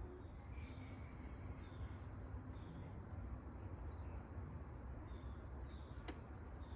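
Faint outdoor ambience: short, high bird calls repeating over a low steady rumble, with a single click about six seconds in.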